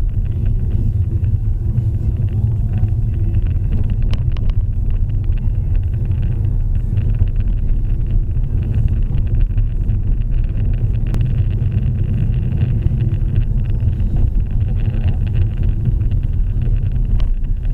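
Steady low rumble of a car being driven, with a few faint ticks.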